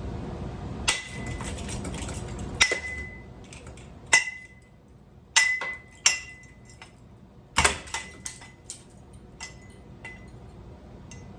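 Metal parts of a ceiling fan being struck hard, about a dozen irregular blows, each followed by a brief high-pitched ring, as he tries to knock a part loose.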